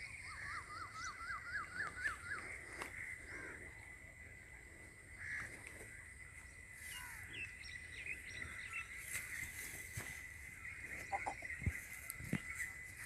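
Outdoor rural ambience with small birds calling: a quick run of about eight chirps near the start, then scattered short calls. A faint steady high tone runs underneath, and a few sharp clicks come near the end.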